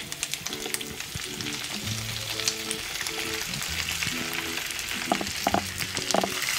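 Oil sizzling steadily in a kadai as ground spice powder is poured over steamed kozhukattai, with a spoon stirring and knocking against the pan a few times near the end. Soft background music plays underneath.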